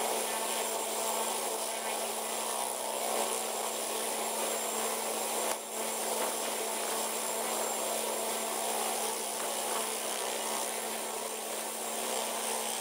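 Helicopter running steadily: an even, droning hum over broad noise, with a brief dip about halfway through.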